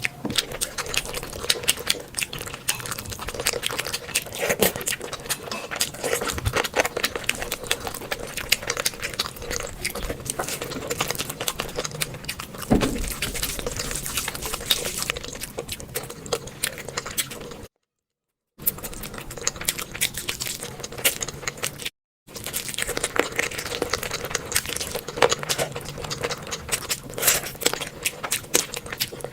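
Close-up eating sounds: dense wet chewing, smacking and clicky mouth noises as big bites of curry and rice are eaten. The sound drops out completely twice, briefly, about two-thirds of the way through.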